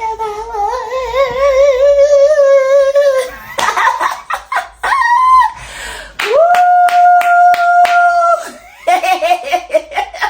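A woman's voice crying out in joy, holding long high notes that waver quickly in pitch, broken by short cries. Hand claps run through the second long note, about two-thirds of the way in.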